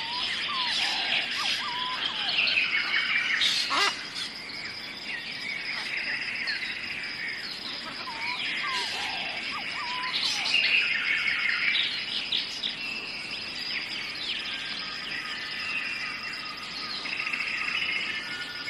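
Several birds calling together, with many short chirps and whistled calls overlapping, over a steady high-pitched whine.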